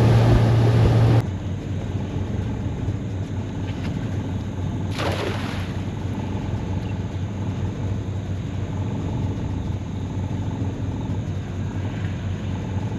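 Boat motor running, then dropping abruptly to a lower, steady hum about a second in. There is a brief rushing sound around five seconds in.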